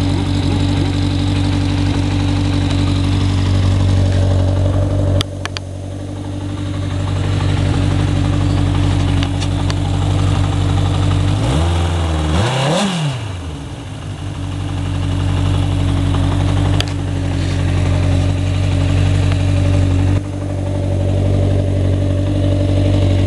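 1980 Honda CB900 Custom's inline-four idling steadily through an adapted Suzuki RF900R stainless-steel muffler can and mid-pipe. About halfway through, the engine pitch dips briefly and comes back up.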